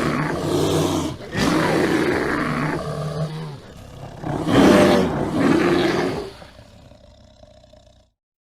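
A large animal calling loudly three times in long, deep, drawn-out roars or bellows; the last call trails off and the sound cuts off near the end.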